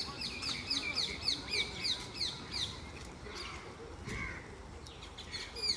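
Songbird calling a fast run of repeated falling high notes, about four a second, which stops under three seconds in. A few scattered shorter bird calls follow.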